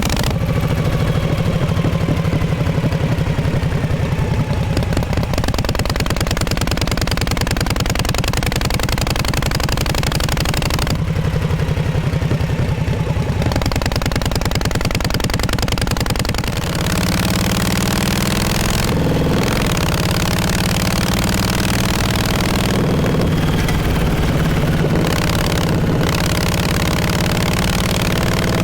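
1948 Harley-Davidson Panhead V-twin running, its exhaust note steady and pulsing, with a shift in engine speed about 17 seconds in.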